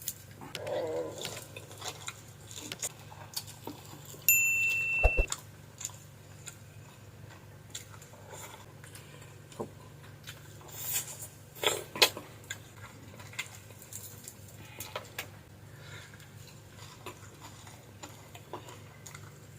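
Scattered light clicks and knocks over a steady low hum, with a single short electronic beep about four seconds in.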